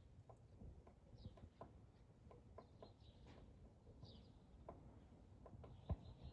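Faint, short, high chirps from small birds, a few times, over scattered light ticks.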